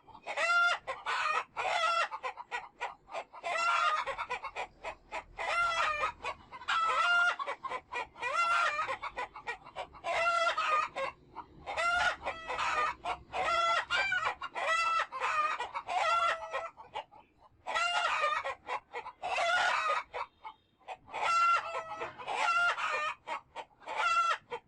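Chickens clucking: many short calls in quick runs, with brief pauses between the runs.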